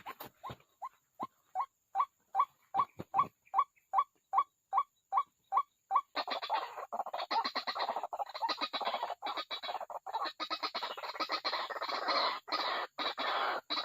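White-breasted waterhen calling: a run of short clipped notes that speed up, then from about six seconds in a dense, harsh, continuous chattering chorus.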